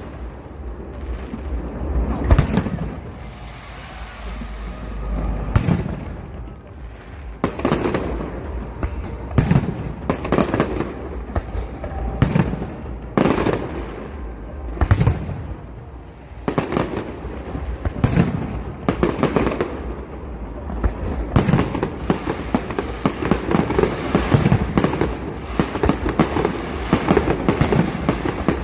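Aerial fireworks bursting: a series of loud bangs with rumbling echoes and crackle, a few seconds apart at first, then coming quickly one after another near the end.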